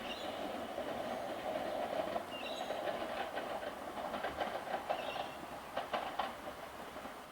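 Melbourne Metro electric suburban train running past with a steady rumble. A run of sharp wheel clicks over rail joints comes through the middle, and the sound eases off near the end.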